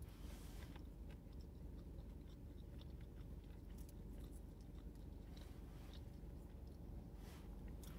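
A person chewing food quietly, with small mouth clicks and a few louder chews spread through, over a low steady rumble.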